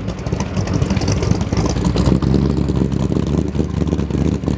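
Ford 427 side-oiler V8 with aluminum heads and dual four-barrel carburetors running steadily in a 1965 Shelby Cobra, with a deep, fast-pulsing exhaust note.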